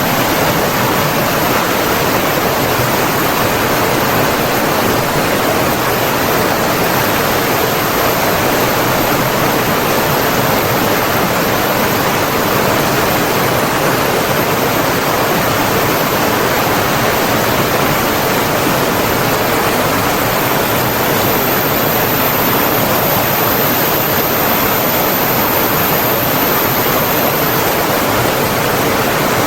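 Flowing water rushing steadily in an even, unbroken wash of noise, with no splashes or pauses standing out.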